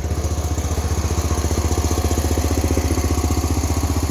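Allis Chalmers 712H garden tractor's 12 horsepower Kohler engine running steadily with an even, rapid exhaust beat, still not fully warmed up.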